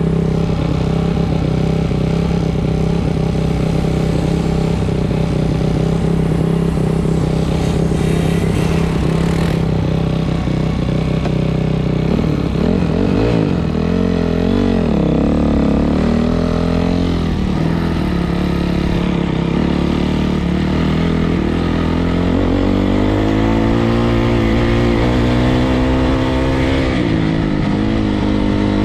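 Four-stroke single-cylinder dirt bike engine running steadily, then rising and falling in pitch a little over halfway through, and climbing in pitch again near the end.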